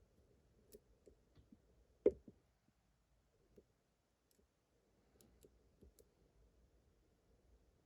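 Faint, scattered clicks of a lock pick and tension wrench working the pins inside a lock cylinder, with one sharper click about two seconds in.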